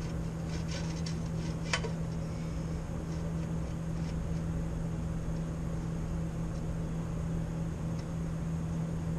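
A few light metallic clicks and clinks, with one sharper click about two seconds in, as a Jeep flex plate is handled and offered up to check that it lines up. A steady low hum runs underneath.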